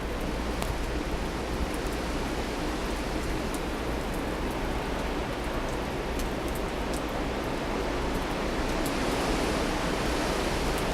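Steady rushing of blizzard wind, with faint scattered ticks of snow or ice striking, swelling a little near the end.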